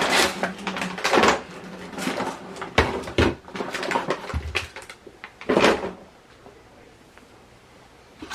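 A toy truck's box and packaging being handled and unpacked: irregular rustling with several sharp knocks, settling quieter for the last two seconds.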